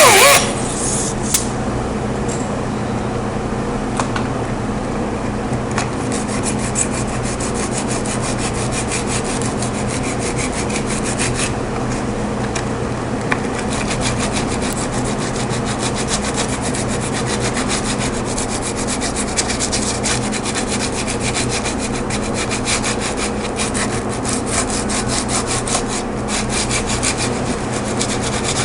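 Power sanding tool running steadily against the plastic of a car's bumper cover, an even rasping with a steady motor hum underneath.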